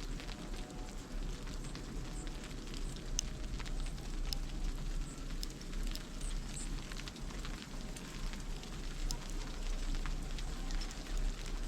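Steady crackling patter of many small ticks, as of ice pellets or ice crust, over a constant low rumble, with a few brief, very high bird chirps.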